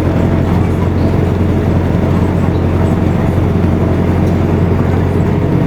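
Isuzu Erga Mio city bus's four-cylinder diesel engine running steadily, heard from inside the passenger cabin with a strong low drone and road noise.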